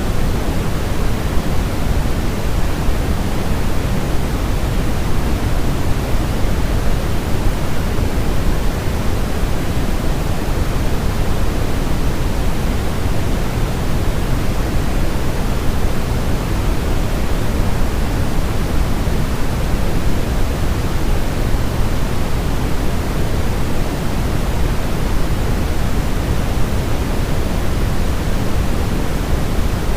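Steady synthetic 'white noise' for baby sleep: an even, constant hiss, weighted toward the low end so it sounds deep and rushing rather than bright.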